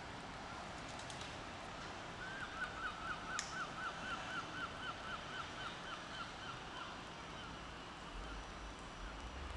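A bird calling a rapid run of about twenty short, repeated notes, about four a second, over a steady background hiss; a single sharp click about three seconds in.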